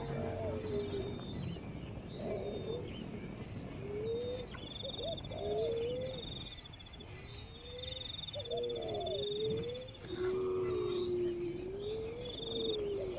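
Animal calls: low calls that glide up and down, repeated every couple of seconds, overlapping with shorter high trilling calls.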